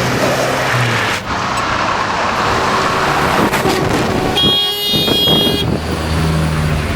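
Motor vehicles running past with a steady rush of engine and road noise. A high-pitched tone sounds for about a second, around four and a half seconds in.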